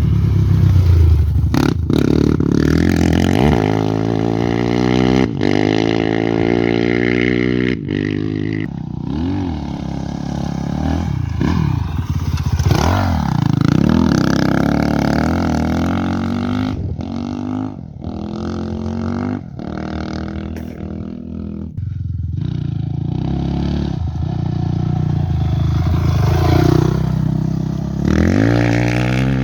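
Off-road race motorcycles going by one after another, their engines revving up and down, with the pitch rising and falling as each passes.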